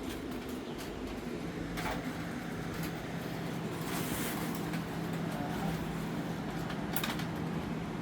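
A steady low machine hum, with a few light clicks and knocks of hand tools on metal.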